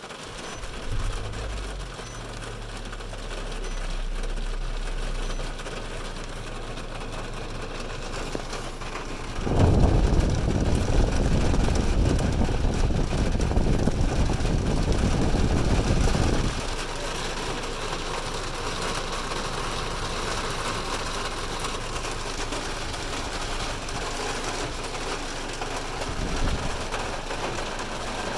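Heavy rain drumming steadily on a car's roof and windows, heard from inside the car. For about seven seconds in the middle a much louder low rumble rises over the rain and then drops away abruptly.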